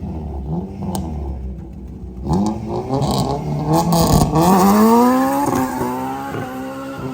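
A car engine running low, then about two seconds in it revs hard and accelerates, its pitch climbing and then slowly dropping away, with a few sharp cracks in the middle of the run.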